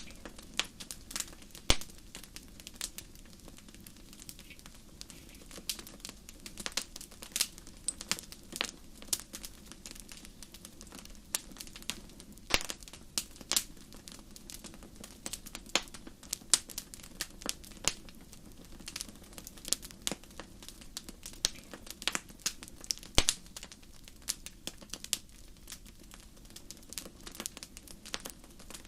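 Wood fire burning in a fireplace: irregular sharp crackles and pops, many per second, over a soft steady rush of the flames.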